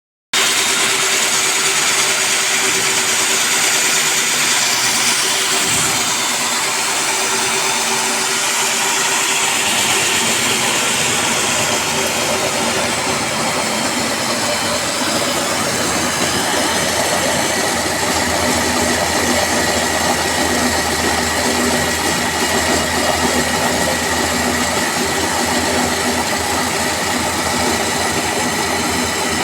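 Core cutting machine running steadily while it drills a rain-water pipe hole, its motor giving a constant whine over grinding noise.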